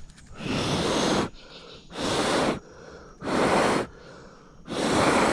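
A person breathing out hard four times, each long, forceful breath about a second and a half after the last.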